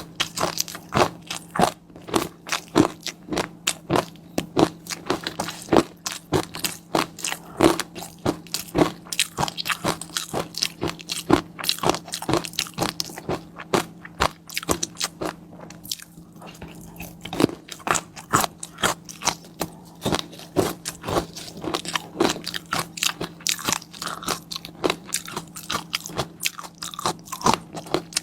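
Close-miked mukbang eating: a dense run of crisp crunching and popping bites with chewing, a little sparser about halfway through, over a steady low hum.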